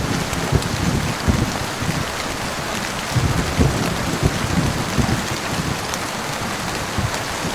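Steady heavy rain, with low rumbles of thunder swelling and fading unevenly underneath.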